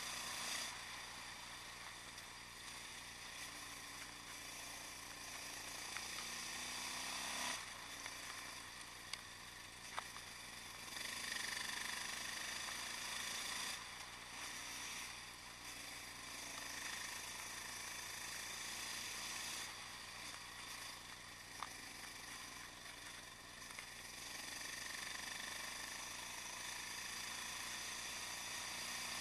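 Yamaha XT660X single-cylinder supermotard running on the move through a Mivv aftermarket exhaust, heard through a bike-mounted camera along with wind noise. The revs rise and fall several times, with a few brief clicks.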